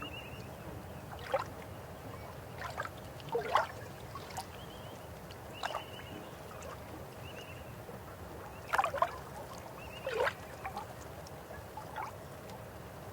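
River water flowing steadily, with short louder plops and gurgles every second or two, loudest about nine and ten seconds in.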